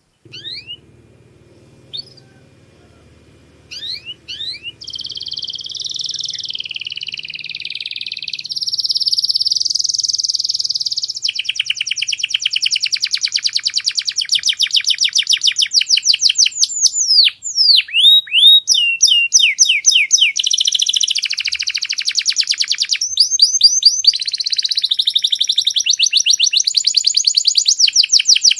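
Domestic canary singing: a few short chirps, then from about four seconds in a long, loud, unbroken song of rapid trills and rolling phrases.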